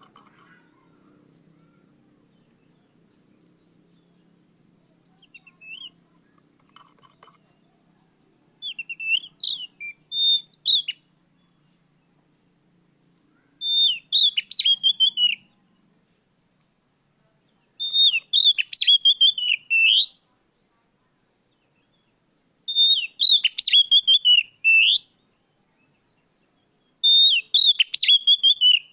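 Oriental magpie-robin (kacer) singing: five loud bursts of rapid whistled notes, each about two seconds long and coming every four to five seconds, starting about nine seconds in. Faint short high chirps come between the bursts.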